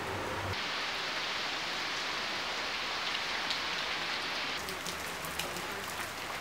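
Rain falling steadily on leaves and wet ground. From about four and a half seconds in, many separate drops tick sharply as water drips onto the wet surfaces.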